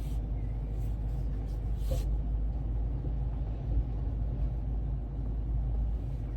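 Truck driving, heard from inside the cab: a steady low engine and road rumble.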